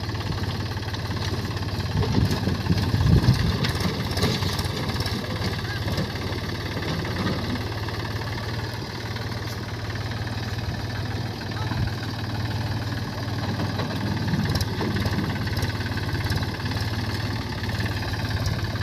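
Mahindra tractor's diesel engine running steadily, louder and rougher for a couple of seconds early in the stretch.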